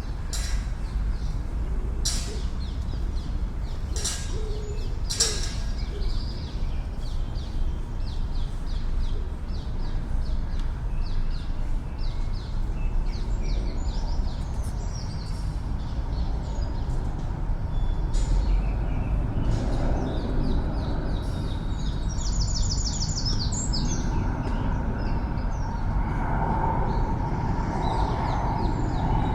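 Small songbirds chirping and trilling, with fast runs of high repeated notes in the second half, over a steady low rumble of city traffic.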